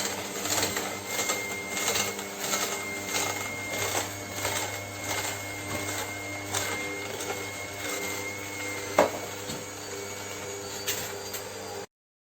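A small motor runs with a steady hum and a thin high whine, along with irregular clicks and knocks, one of them louder about nine seconds in. The sound cuts off abruptly just before the end.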